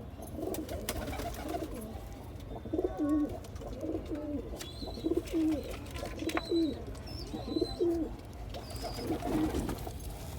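Pigeon cooing, a run of low calls about once a second, each ending in a downward slide.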